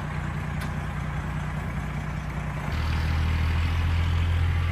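Heavy truck's engine running steadily, then turning deeper and louder a little over halfway through as it works harder.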